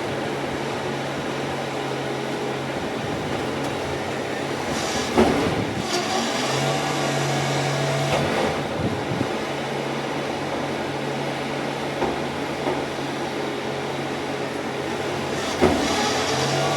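Garbage truck engine running steadily with a whine from its working machinery, and two bangs, about five seconds in and near the end, as bins are handled.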